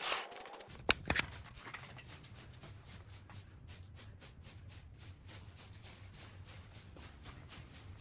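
Brush strokes on canvas: short scratchy dabs repeating about three or four a second, after two sharp clicks about a second in.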